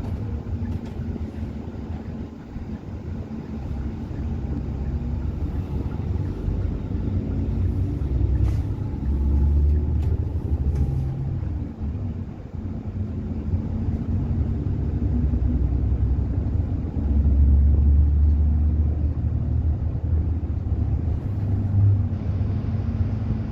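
Inside a moving bus: steady engine drone and road rumble, the engine note rising and falling as it changes speed. The low rumble swells louder twice, about nine seconds in and again around seventeen seconds.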